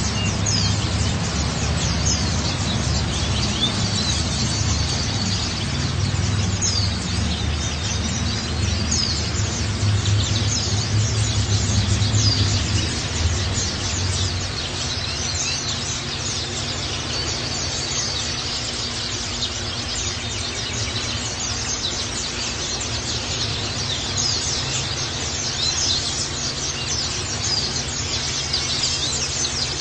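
White-eye (pleci) birds chirping and twittering in short high calls, repeated throughout over a steady hiss. A low hum underneath fades out about halfway through.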